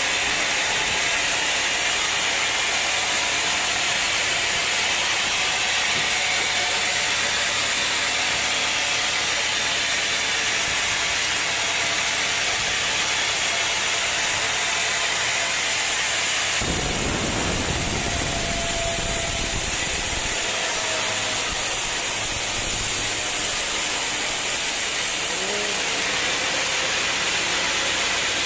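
Sawmill machinery running with a loud, steady hiss-like mechanical noise. About two-thirds of the way through, the sound changes abruptly to a heavier, lower rumble.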